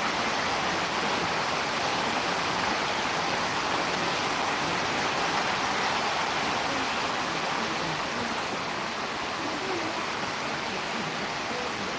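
Steady rain falling, an even rushing hiss.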